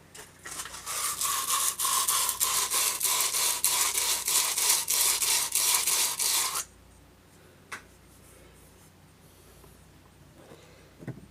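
Sandpaper rubbed back and forth by hand inside the metal axle hub, a rhythmic rasping of about four strokes a second. It stops a little past halfway, and one click follows.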